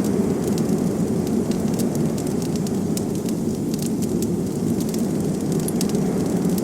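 Steady low rush of blizzard wind, with a wood fire in a fireplace crackling over it in frequent small, irregular pops.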